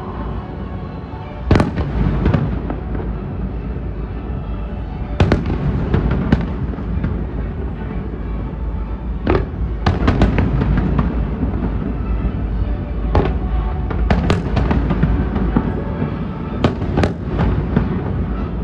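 Fireworks going off: about fifteen sharp bangs at irregular intervals, some in quick clusters of two or three, over a continuous low rumble of more distant bursts.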